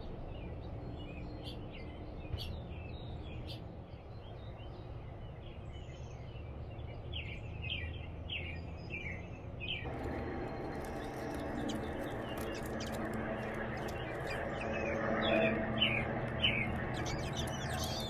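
American robin nestlings begging from the nest: a rapid string of short, high, falling chirps. Under them runs a steady background noise that grows louder about ten seconds in.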